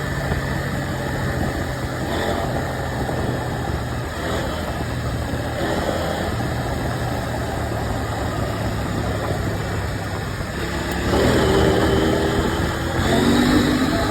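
KTM 790 Adventure's parallel-twin engine running at steady low revs over a steady rushing noise. Near the end it revs up twice, the pitch rising each time.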